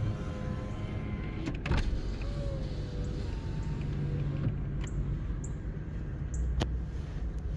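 A small electric motor whirring in short runs, broken by a few sharp clicks.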